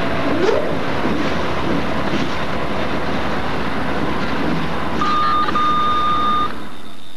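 Train passing, a steady loud running noise with a faint repeating low beat, joined about five seconds in by a steady high tone that lasts about a second and a half; the sound then drops away to plain hiss.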